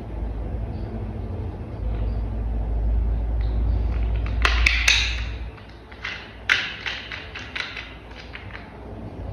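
Plastic toy parts clicking and tapping as they are handled and fitted together, in two clusters of sharp clicks, the first about four and a half seconds in and the second from about six and a half seconds, over a low rumble that fades out a little after five seconds.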